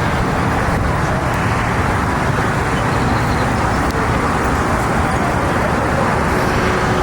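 Steady rumble of motor-vehicle noise with no single event standing out, like engines running and traffic moving around a car show.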